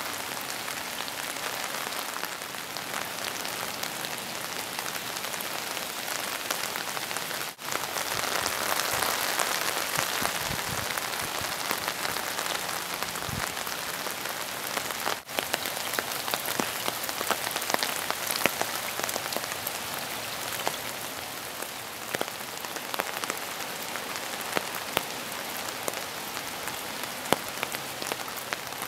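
Steady rain falling on surfaces, with many individual drops tapping close by. The sound swells for a while in the middle and breaks off for an instant twice.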